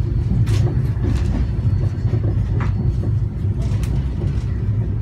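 Shatabdi Express passenger coach rolling along the track, heard from inside the coach: a steady low rumble with a few short clicks and rattles.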